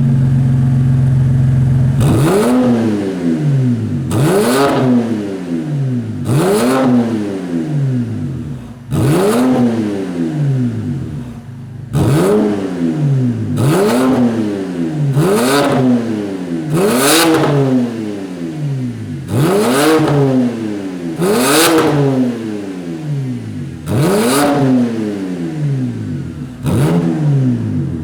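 BMW 330i straight-six sounding through an aftermarket Tai-Rong exhaust, idling and then revved hard about eleven times in a row, each rev climbing quickly and dropping back to idle every two to three seconds.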